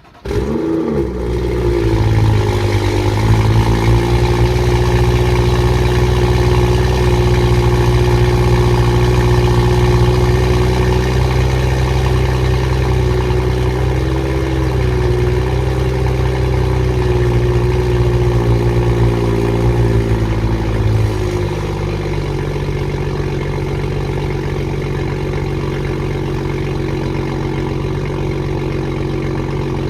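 BMW M2's turbocharged straight-six, through an M Performance exhaust, firing on a cold start with a short rev flare, then holding a fast cold idle. About two-thirds of the way through, the idle steps down to a lower, quieter speed.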